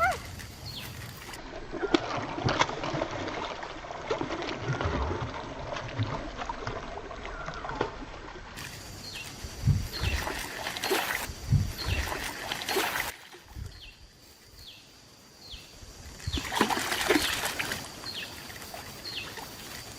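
Water splashing and trickling in irregular bursts, with a quieter lull about two-thirds of the way through.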